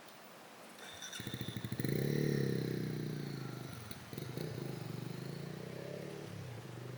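Small petrol engine starting up nearby: a quick sputter of firing strokes, a brief rev that is loudest about two seconds in, then it eases down to a steady idle.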